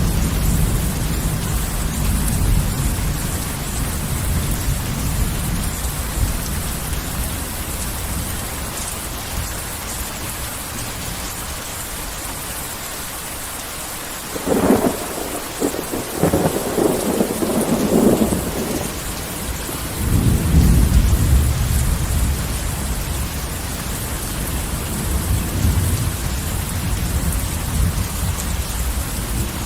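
Heavy rain falling steadily through a thunderstorm, with rolling thunder. About halfway through, a close thunderclap cracks and crackles for several seconds, followed by a deep rumble that fades back under the rain.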